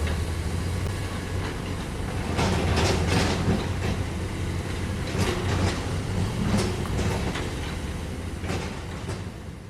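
Heavy diesel earthmoving machine running steadily, with irregular metallic clanks and knocks from its tracks or steel work gear, fading out near the end.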